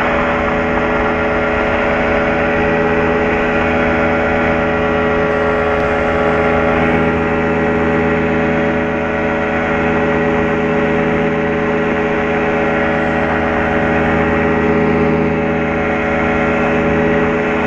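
Small plane's piston engine and propeller running steadily in flight, a continuous drone with several steady tones.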